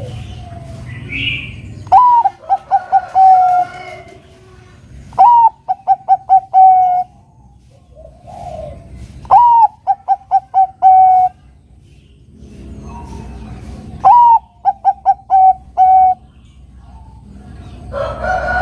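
Zebra dove (Bangkok-type perkutut) singing its cooing song four times. Each phrase opens with a high note, runs into a quick series of short notes and ends on a longer held note.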